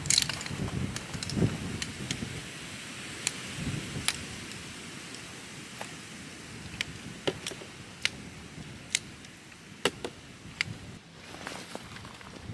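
Camping gear being handled: scattered sharp clicks, about one a second, with a few soft low thumps in the first few seconds, over a steady background hiss.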